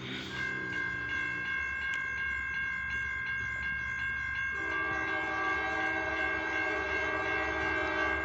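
Approaching freight locomotive's air horn sounds a long, steady chord from about halfway through. It is layered over a high, steadily pulsing ringing typical of a grade-crossing bell.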